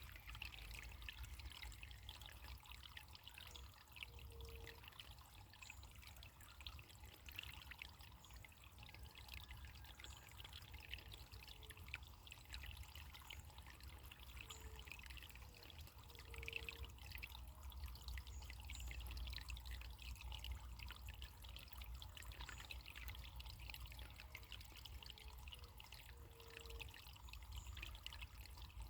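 Faint running water trickling and babbling steadily, like a small stream, with a few brief low notes coming and going.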